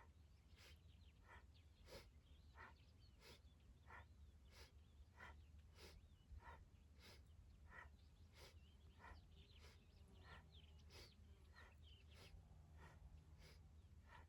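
Faint, rhythmic breathing: short, even breaths about every two-thirds of a second, inhales and exhales alternating, as each spinal flex opens and rounds the spine.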